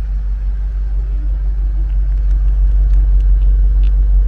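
BMW X6 M Competition's twin-turbo V8 idling, a steady low rumble from the quad-tip exhaust, a little louder in the second half.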